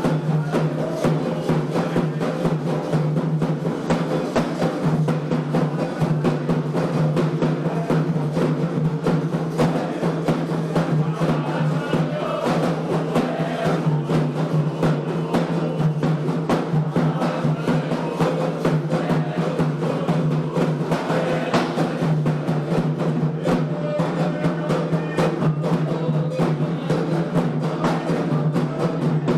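Candomblé ritual drumming on atabaque hand drums: continuous, dense strokes in a fast, steady rhythm, with a steady low hum beneath.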